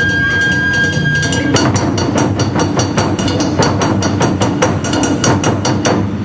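Japanese taiko ensemble playing: a high note is held over the drums for about a second and a half, then fast sharp strikes come in at about five a second.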